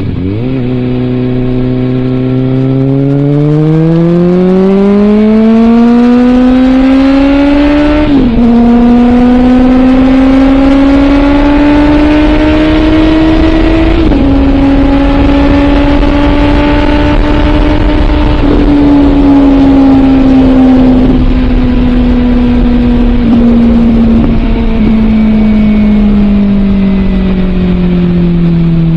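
Suzuki GSX650F inline-four with a Scorpion aftermarket exhaust pulling hard under acceleration, its pitch climbing steadily. It upshifts about eight seconds in and again around fourteen seconds, holds a steady pitch, then the revs slowly fall as it rolls off the throttle near the end.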